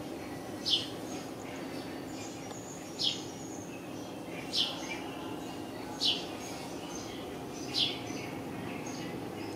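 A bird chirping repeatedly: five short, high, falling chirps, about one every second and a half, with fainter bird chirps in between. A steady low hum runs underneath.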